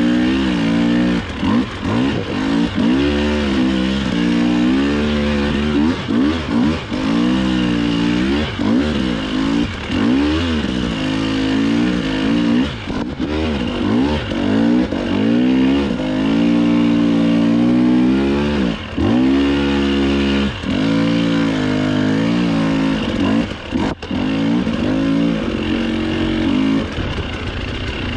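Dirt bike engine revving up and down over and over as the throttle is worked through the trail, with a sharp knock about three quarters of the way through.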